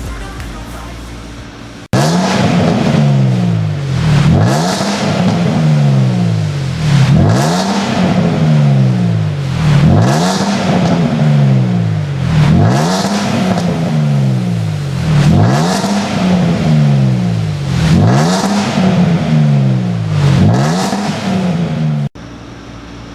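Land Rover Discovery 4's 3.0 supercharged V6 petrol engine, through an aftermarket dual variable-valve exhaust, being free-revved again and again: each rev shoots up quickly and falls back more slowly, about one every two to three seconds. The revving starts suddenly about two seconds in and cuts off shortly before the end, leaving a quieter steady sound.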